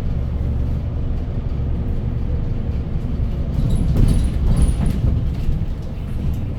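City bus running between stops, heard from inside the cabin: a steady low engine and road rumble, with brief high squeaks and rattles about four seconds in.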